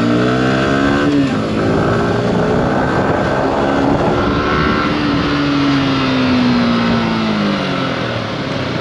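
Yamaha R15 V4's 155 cc single-cylinder four-stroke engine pulling away, over wind noise. Its pitch climbs and breaks at a gear change about a second in, then rises again and falls slowly as the throttle eases off.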